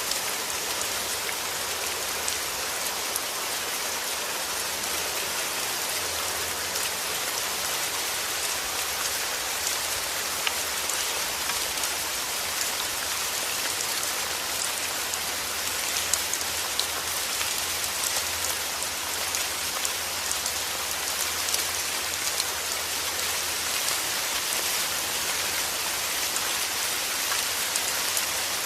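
Steady heavy rain falling on a surface, a dense hiss with many small drop ticks and a low rumble underneath.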